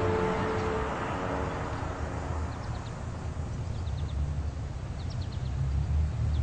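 Background music fading out, then outdoor ambience: a low, steady rumble with small birds chirping several times in quick runs of three or four short high notes.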